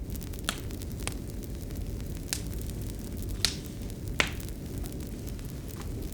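Wood fire crackling in a fireplace: a steady low rumble of burning with about six sharp, scattered pops, the loudest two near the middle.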